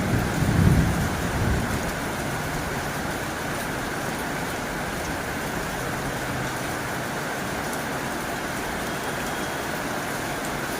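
Heavy rain falling on a tin roof, a steady hiss. A low rumble of thunder dies away in the first two seconds.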